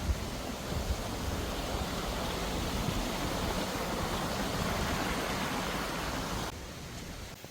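Rushing water of a mountain stream, a steady rush that drops away sharply about six and a half seconds in.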